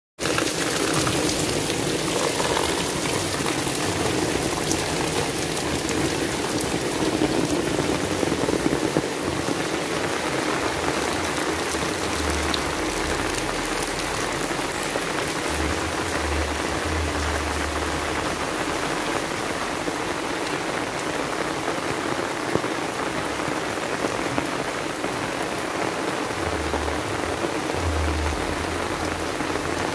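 Heavy rain falling steadily, pattering and splashing on wet ground and puddles.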